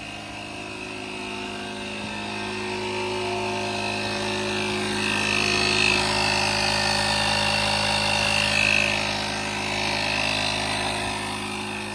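DeWalt power box's built-in air compressor running steadily as it inflates a tractor tire, with a constant motor hum that grows somewhat louder over the first few seconds. The tire is partway up, at about 19 psi.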